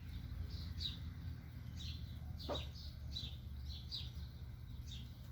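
Young black duck peeping: short, high, falling peeps about twice a second, with one lower falling call about halfway through, over a steady low rumble.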